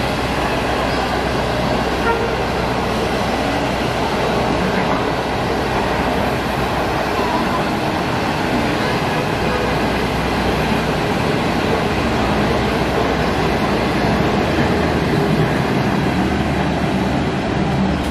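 Passenger train coaches rolling past: a steady, loud rumble of steel wheels on the rails.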